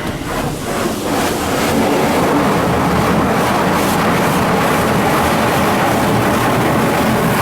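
D&S 5000 rollover car wash machine working over the van, heard from inside the cabin: a loud, steady rush of water and machinery that builds over the first two seconds and then holds.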